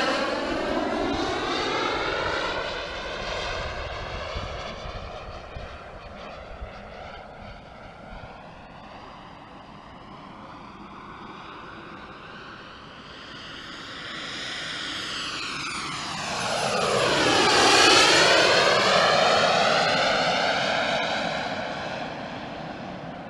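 RC model Eurofighter jet's engine whine flying past twice. It is loud and falling away at the start and distant in the middle. It swells to a close pass about three quarters of the way in, the pitch sweeping down and back up as it goes by, then fades.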